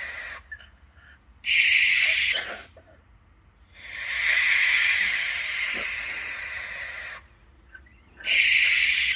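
Owl giving harsh, hissing screeches: a short one at the start, another about a second and a half in, a long drawn-out one of about three and a half seconds, and a last one near the end.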